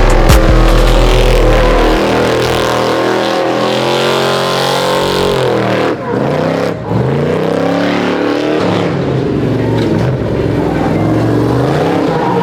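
Prerunner race truck's engine revving hard, its pitch repeatedly climbing and falling as the throttle is worked, with a brief dip around six seconds in.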